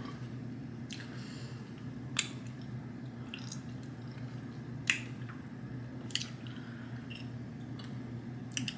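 Soft wet mouth sounds of someone chewing and tasting food, with about seven short smacks or clicks spread over several seconds, over a steady low hum.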